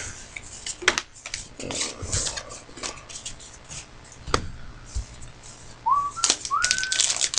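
Light rustling and scattered clicks of trading cards and packs being handled, then two short whistled notes, each rising and then holding, near the end.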